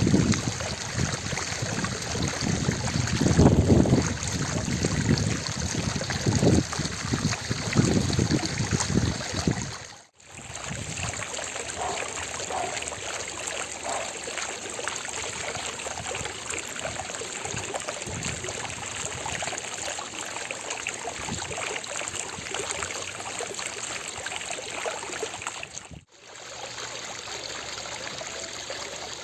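Fountain water splashing and trickling steadily into its basin, with heavier, deeper splashing in the first third. The sound drops out for a moment twice, about a third of the way in and again near the end.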